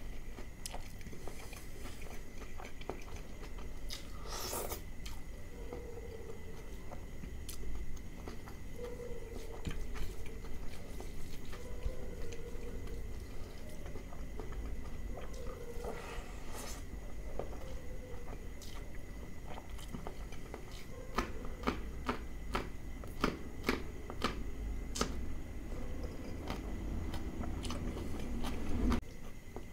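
Close-miked chewing and wet mouth sounds of a person eating mutton liver curry and rice by hand, with scattered lip smacks and clicks that come thickest about two-thirds of the way through. A faint steady high tone runs underneath.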